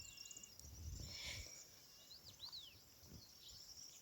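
Faint countryside ambience: a steady high insect trill with a few short bird chirps about halfway through, and low wind rumble on the microphone.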